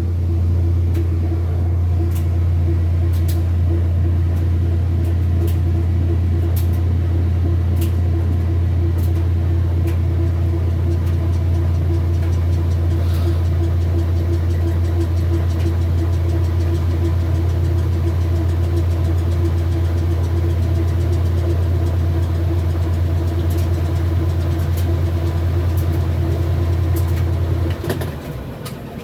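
An electric motor runs with a loud, steady low hum, switched on abruptly, and cuts off sharply about a second before the end.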